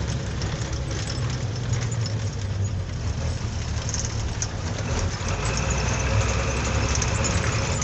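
Truck engine running steadily at low speed, a deep low rumble. A faint steady high whine joins about five seconds in.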